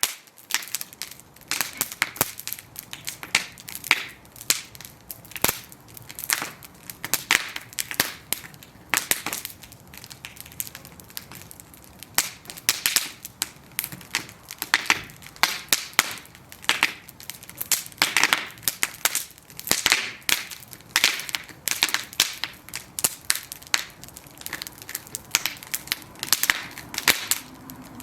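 Bonfire of burning wooden planks crackling and popping, with irregular sharp snaps several times a second over a soft hiss.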